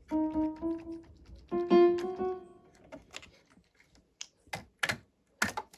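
Casio CTK-6300IN electronic keyboard sounding a few single notes in a piano voice, each note dying away. These are followed by half a dozen sharp clicks and knocks over the last few seconds.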